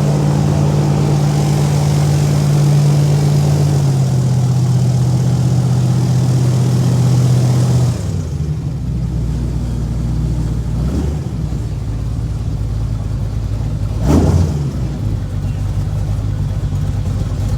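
Boat motor running steadily under power, then throttled back about eight seconds in to a lower, quieter running. A brief louder noise about fourteen seconds in.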